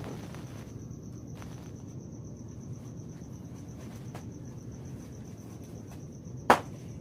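A cricket trilling steadily, a thin high pulsing note over a low background rumble. A single sharp click about six and a half seconds in is the loudest sound.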